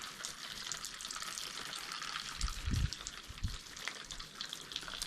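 Small waterfall splashing steadily under a rock overhang, with a low thump about two and a half seconds in.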